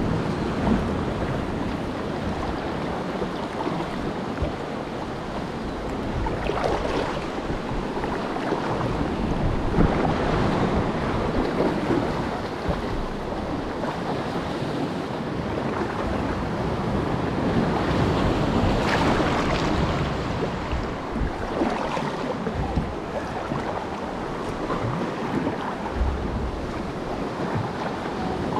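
Ocean swell surging and washing in, building up and easing off several times, with wind buffeting the microphone.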